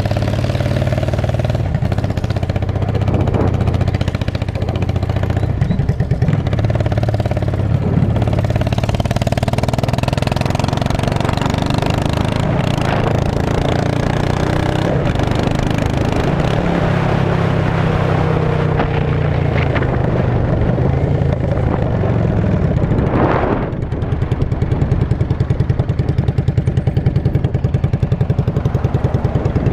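2002 Yamaha V-Star 650's air-cooled V-twin running through straight pipes, with a few sharp cracks scattered through it. The exhaust note turns into an even, pulsing beat over the last several seconds.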